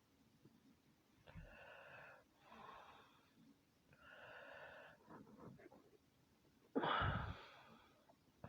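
A person breathing close to the microphone: a few slow, soft breaths, with a louder breath near the end.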